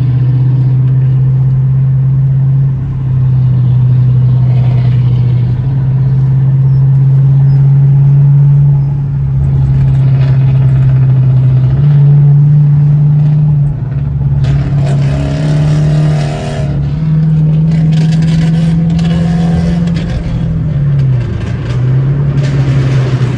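Straight-piped Dodge Charger R/T's 5.7 HEMI V8 pulling hard at full throttle on the highway: a loud, deep exhaust note that holds, dips briefly and picks up again at each gear change, about five times.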